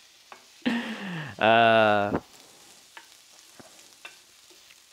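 Black beans frying in a pan on the stove, with a faint sizzle and light scrapes of a wooden spoon stirring them. The loudest sound, about a second in, is a man's wordless drawn-out voice that falls and then holds for about a second.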